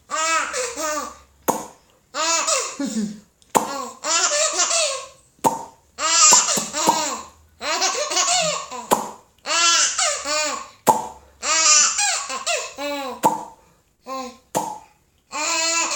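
A young child laughing in repeated bursts, each one set off by a sharp pop; the pops come about every two seconds.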